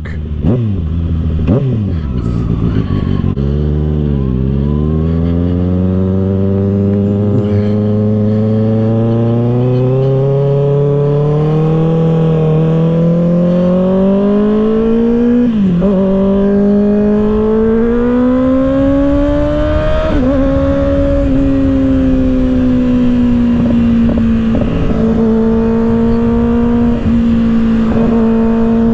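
2024 Kawasaki ZX-6R's inline-four, run through an M4 exhaust with its baffle still in, pulling up through the revs under way in long rising climbs, broken by sharp drops at the gear changes. Near the end it settles into a steady cruise.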